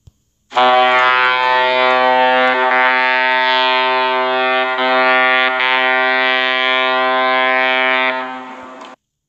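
Annoying sound effect: one long, buzzy horn-like blast held at a single steady pitch, starting about half a second in, lasting about eight seconds, then fading and cutting off near the end.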